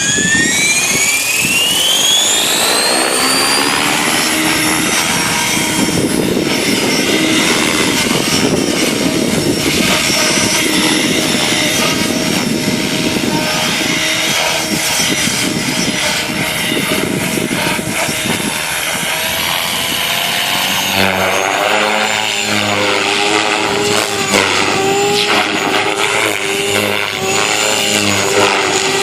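Align 500X electric RC helicopter spooling up, its motor and rotor whine rising over the first few seconds, then running at a steady pitch as it flies. The pitch wavers up and down in the last several seconds.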